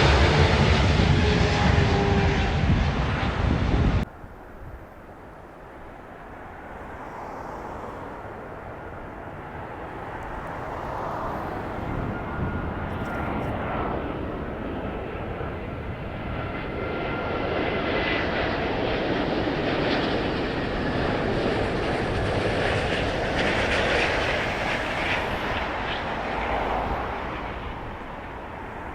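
Jet airliners on landing approach passing overhead. First a loud close pass with a falling engine tone stops abruptly about four seconds in. Then another jet's engine noise, with a faint whine, builds up, peaks and eases away near the end.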